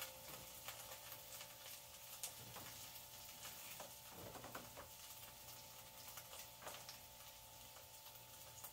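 Faint crackling of tofu cubes frying in a pan: scattered soft ticks and pops over a faint steady hum.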